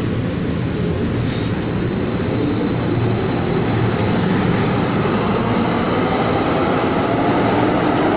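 Siemens SD160 light rail train running, a steady rumble with a faint electric hum.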